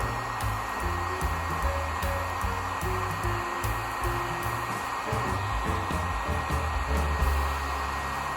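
Heat gun blowing steadily, drying out moisture trapped in the wood of a stripped and sanded tabletop, with background music underneath.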